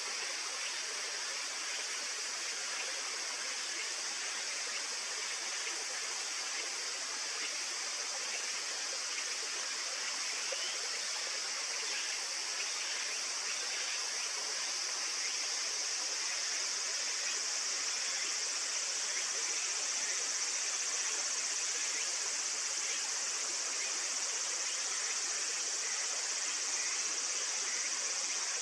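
Steady, unbroken high-pitched chorus of insects over the continuous rush of flowing water; the insect sound grows a little louder after about twenty seconds.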